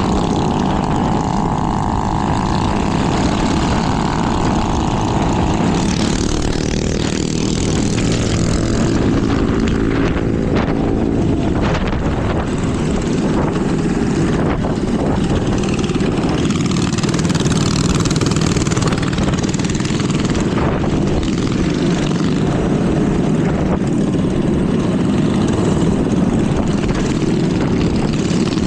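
Small minibike engines running steadily at cruising speed, heard from on board with a dense low rumble. For the first six seconds or so a higher engine whine rides on top, then fades.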